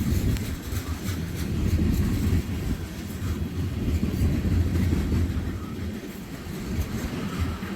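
CSX freight train of tank cars rolling past: a steady rumble of steel wheels on the rails, with faint clicks as the wheels pass over the rail joints.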